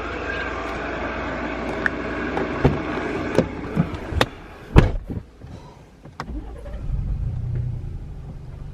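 Car sounds: several knocks and a heavy thud a little under five seconds in, then an engine running with a steady low rumble.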